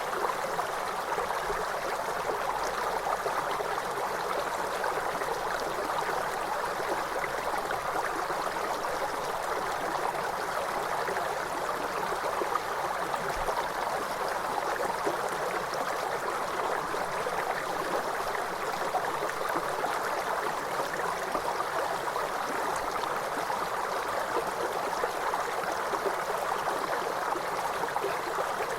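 River water rushing and babbling over rocks, a steady even flow with no breaks.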